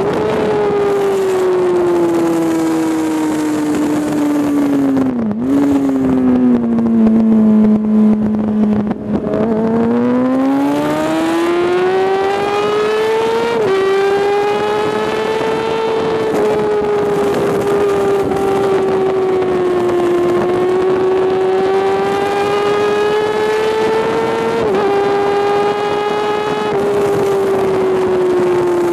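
Sport-bike inline-four engine, likely a Kawasaki ZX-6R, heard from an onboard camera: the engine note falls as the bike slows, with a quick rev blip on a downshift about five seconds in, and runs lowest for a few seconds through a slow corner. It then climbs steadily as the bike accelerates hard and holds high revs, rising and falling a little through the following bends.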